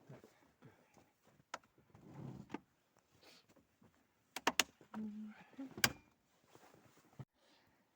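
Handling noises: soft rustling with a few sharp clicks and knocks, a quick cluster about four and a half seconds in and another near six seconds, as of doors, latches or gear being handled.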